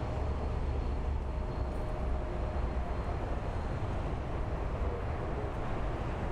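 Airbus A220-300 on approach, its Pratt & Whitney geared turbofan engines giving a steady low rumble with a faint thin whine over it.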